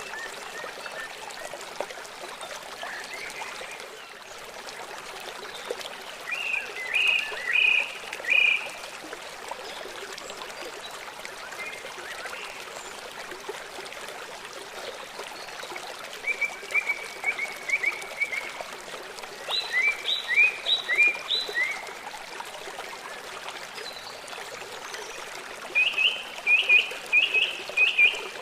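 Small songbirds singing short phrases of quick repeated chirps, in four bouts, over a steady background of running water.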